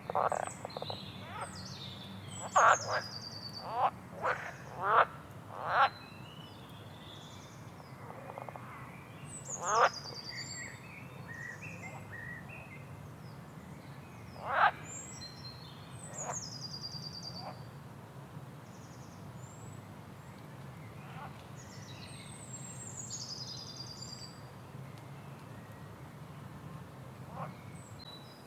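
Frogs croaking in short loud calls, six in quick succession in the first six seconds and a few more later, with songbirds singing high, falling whistled phrases throughout over a low steady background hum.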